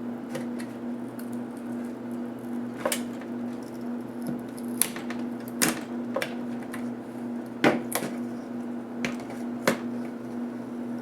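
Scattered sharp clicks and taps of small tools and plastic laptop parts being handled during disassembly, about six in all, over a steady low hum.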